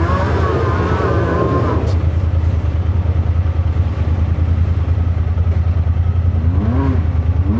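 Side-by-side UTV engine running steadily, a deep drone throughout, with a rush of noise and a wavering higher whine in the first two seconds.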